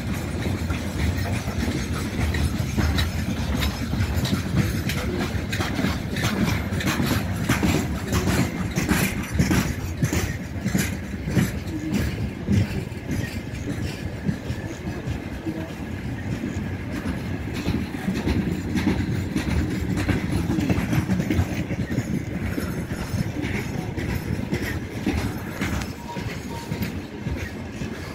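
Broad-gauge LHS freight train of open gondola wagons rolling past close by. There is a steady low rumble of wheels and a run of clacks as the wheels cross rail joints.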